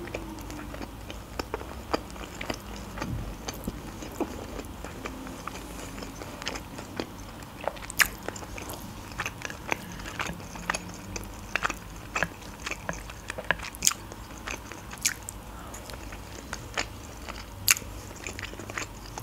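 Close-miked chewing of sticky sauce-glazed chicken pieces, with many irregular sharp mouth clicks.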